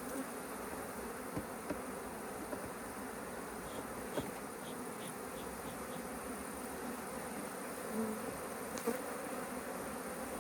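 A mass of honeybees buzzing steadily around an open hive, with a few light clicks and knocks here and there.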